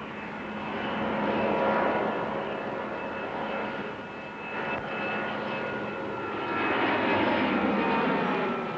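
Airbus A310 jet airliner's turbofan engines at takeoff power: a jet roar with high whining fan tones that swells about two seconds in and again near the end.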